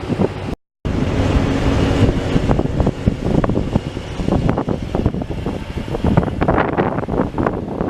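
A car on the move: steady engine and road rumble with wind buffeting the microphone, cut off briefly by an edit about half a second in.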